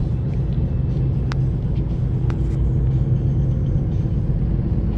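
Car engine and road noise heard inside the cabin while driving: a steady low rumble with a hum running through it.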